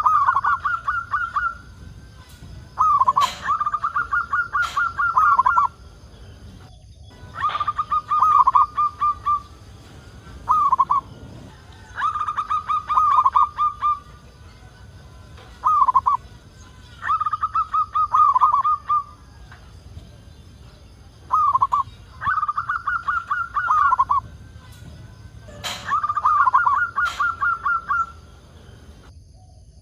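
Zebra dove cooing: a rhythmic phrase of quick, rolling coos, repeated about every three seconds. Short single coos fall between some phrases. A few sharp clicks are also heard.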